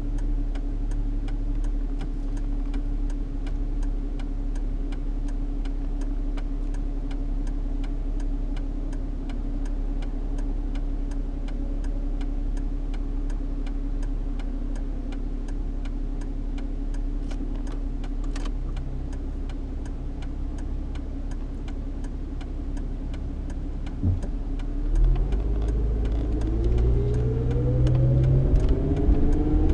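Ford Mustang 3.8-litre V6 heard from inside the cabin, idling with a steady hum under a regular light ticking. Near the end a sharp click, then the engine's pitch rises as the car accelerates.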